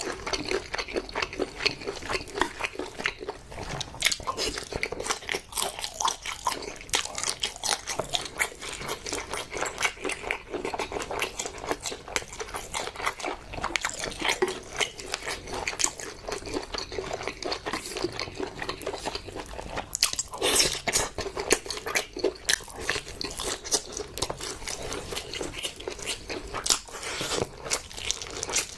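Close-miked eating: continuous chewing and biting with many small, wet mouth clicks, the sound of a mukbang. A cluster of louder bites comes about twenty seconds in.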